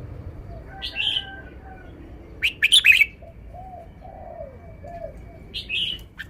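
Red-whiskered bulbul singing short, bright phrases: one about a second in, a louder run of notes midway, and another near the end. Fainter low arched cooing notes fall between the phrases.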